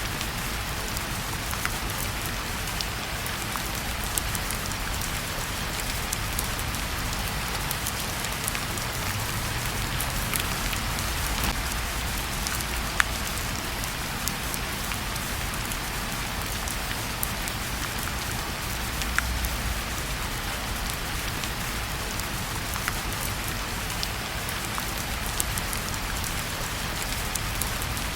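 Steady rain falling, an even hiss with a low rumble beneath, and a wood fire in a fireplace crackling with a sharp pop now and then.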